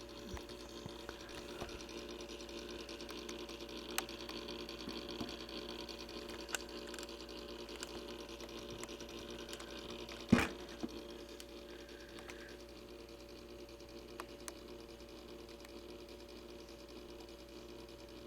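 Simplex Time Recorder synchronized clock movement running, its motor giving a steady hum and whir, with light clicks scattered through and one sharp knock about ten seconds in.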